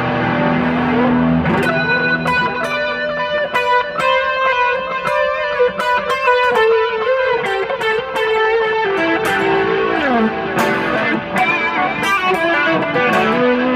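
Fender Stratocaster electric guitar played clean through an effects processor. A held chord opens, then runs of picked single notes and chords follow, with a few slides. It is being played for a pickup tone comparison.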